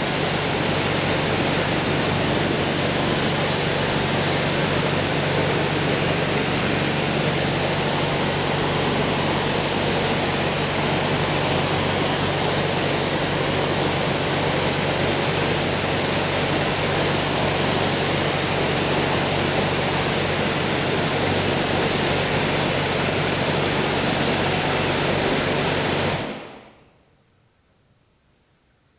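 Pressure washer spraying water: a loud, steady hiss of spray over the even hum of the machine's pump motor, cutting off abruptly about 26 seconds in.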